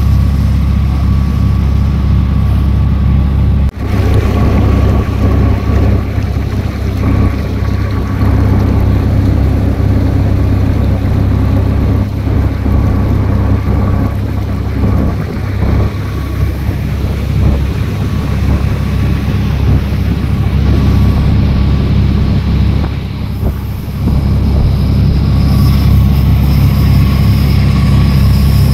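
Small fiberglass passenger boat's engine running steadily under way, a loud continuous drone, with water rushing past the hull and wind on the microphone.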